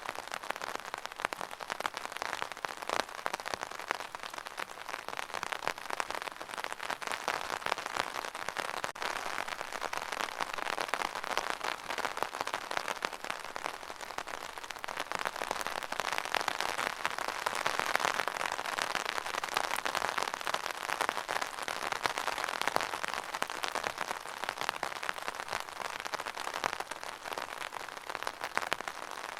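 Steady rain, a dense hiss of many small drop hits, swelling a little about two-thirds of the way through.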